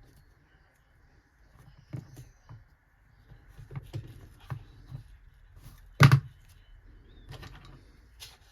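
Light knocks and clicks of tools and small parts being handled on a workbench, spaced irregularly, with one louder sharp knock about six seconds in, over a faint steady hum.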